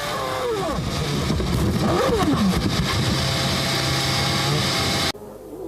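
Formula One car engines running at high revs past the trackside microphone, their pitch falling as they go by, over a dense noise. The sound cuts off abruptly about five seconds in.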